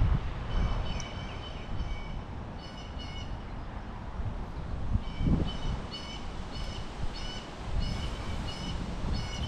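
A bird calling in runs of short, high notes, about three a second, with pauses between the runs. Wind buffets the microphone in gusts, strongest at the start and again about five seconds in.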